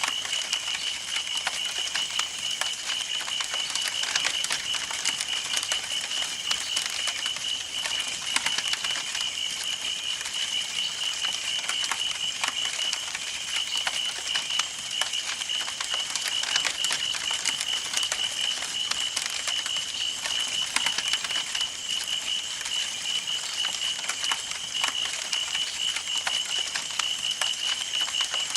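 Campfire burning, with wood crackling and popping in a dense, irregular stream of sharp snaps over a soft hiss. A steady, high, pulsing trill sounds behind it.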